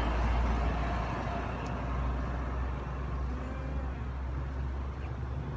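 A steady low rumble, like a vehicle engine running.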